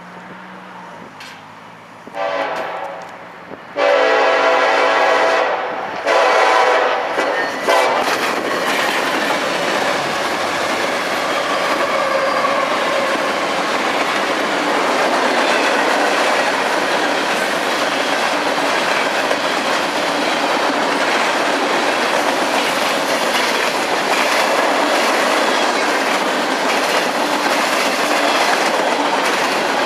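A freight train's diesel locomotive sounds its multi-chime air horn in a series of blasts, short, then long, then long and short again. The train then rolls past with a steady rumble of wheels and clickety-clack on the rails.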